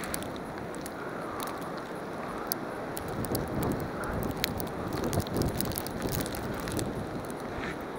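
Wind noise on the microphone, with footsteps through deep snow coming in as irregular steps from about three seconds in.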